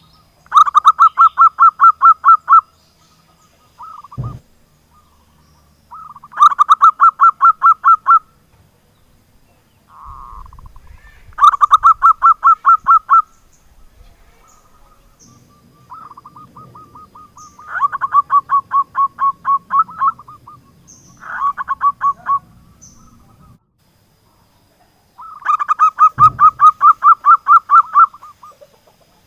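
Zebra dove (perkutut) singing: about six bursts of quick, evenly spaced cooing notes, each lasting a second or two and repeating every few seconds. Faint high chirps and two brief low knocks fall in the gaps.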